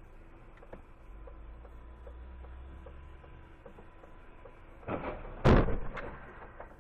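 A sudden loud impact, a vehicle collision heard from inside a car, about five and a half seconds in, dying away over about a second. Before it there is a steady low cabin hum with light regular ticking.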